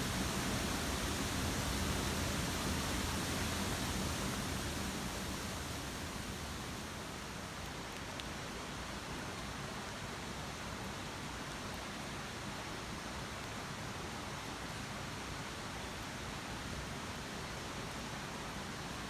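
Steady rain falling, an even hiss with no distinct drops or crackles, easing a little in level about a quarter of the way through.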